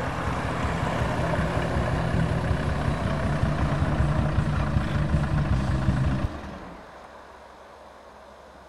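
Peugeot 406 saloon's engine running as the car rolls in over snow and pulls up. The engine is switched off about six seconds in and the sound drops away suddenly.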